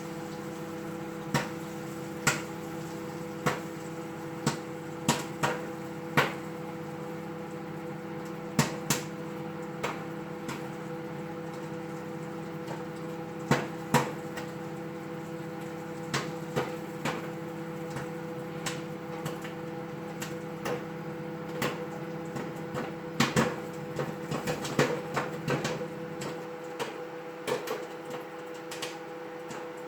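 Popcorn kernels popping in a bag of microwave popcorn inside a running microwave oven. Scattered sharp pops over the oven's steady hum, coming closer together near the end.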